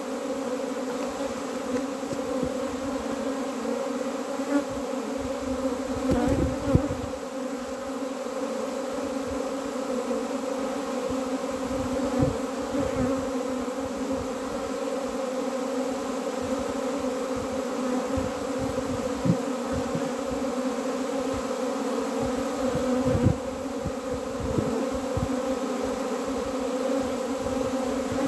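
Honeybee colony buzzing in a steady, many-layered hum, with a few light knocks here and there.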